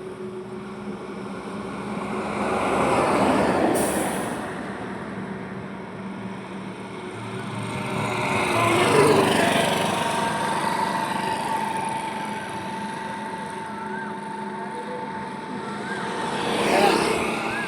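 Highway road traffic: vehicles pass one after another over a steady rumble of traffic. Three passes swell and fade, about three seconds in, near the middle and near the end.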